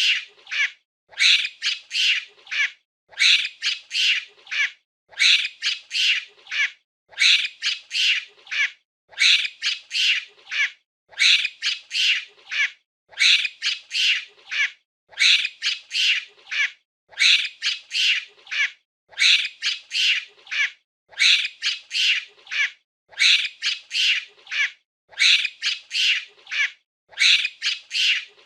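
Monkey calling in high-pitched, squeaky bursts of three or four calls, the same burst repeating about every two seconds.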